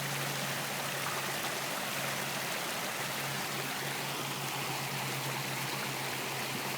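Steady rushing of a flowing stream, even and unchanging.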